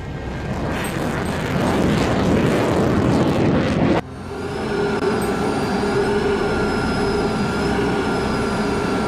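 Jet aircraft engine noise: a rushing roar that grows louder over about four seconds and cuts off suddenly, followed by a steady engine whine with a few held, slightly wavering tones.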